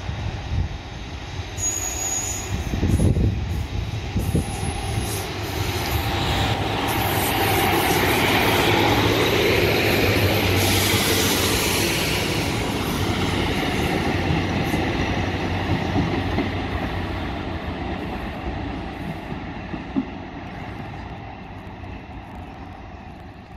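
Diesel multiple unit coming into the platform and passing close by. Its engine and wheel noise grows louder and is loudest about halfway through, with a high squeal in the middle, then fades slowly as the train runs on down the platform.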